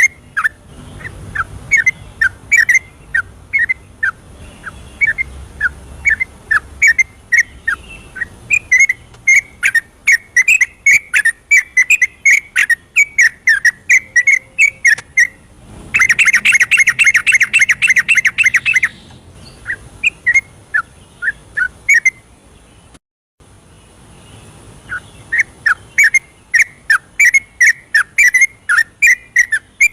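Yellow-vented bulbul (trucukan) song played as a lure: a fast string of short whistled notes, with a dense rapid trill of repeated notes about halfway through. A moment later the sound cuts out briefly, then the notes resume.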